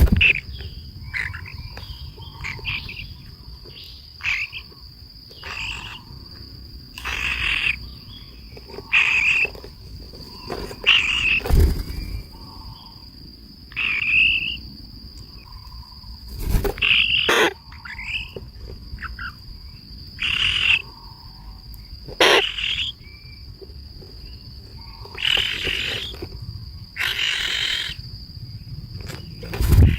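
Outdoor nature sound: a steady high-pitched insect drone, with short harsh calls every second or two, typical of birds.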